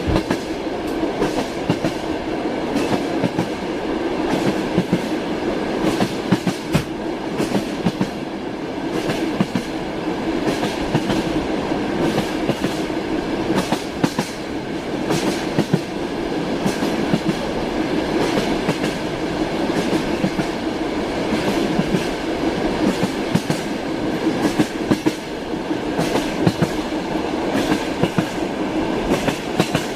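Train wheels clicking over rail joints as a railway car rolls along, a steady running rumble with frequent short knocks.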